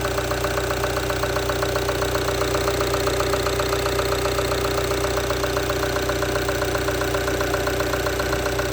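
Ram Rampage 2.2 four-cylinder turbodiesel idling steadily, with the rapid, even clatter typical of a diesel at idle.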